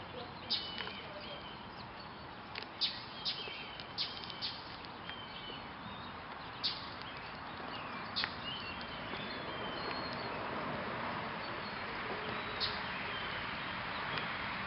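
Small birds chirping at a feeder: short, sharp chirps and brief high calls come scattered irregularly over a steady outdoor hiss, which grows a little louder after about eight seconds.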